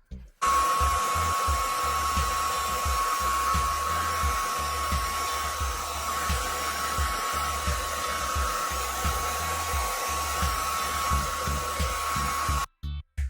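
Hair dryer blowing steadily with a constant high motor whine. It switches on about half a second in and cuts off abruptly near the end, with a low music beat underneath.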